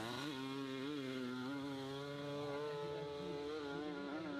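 Hill-climb motorcycle engine running at high revs, held fairly steady, its pitch wavering slightly with the throttle.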